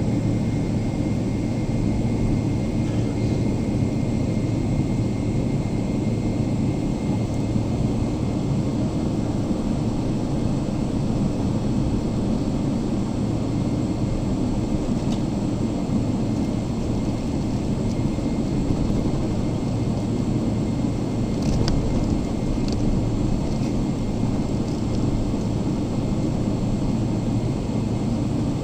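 Steady cabin noise inside a Boeing 777-300ER parked on the ground: an even rush of air-conditioning air with a low hum, and a couple of faint clicks about two-thirds of the way through.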